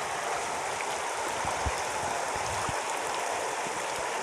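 Heavy rain with rainwater running off, a steady rushing hiss of water.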